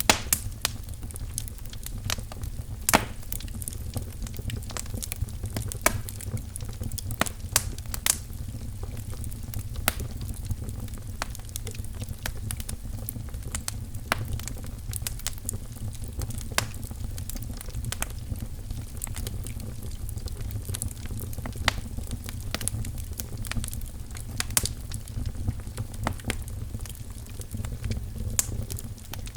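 Wood fire crackling in a fireplace: a steady low rumble of flames with irregular sharp pops and snaps, several of them loud.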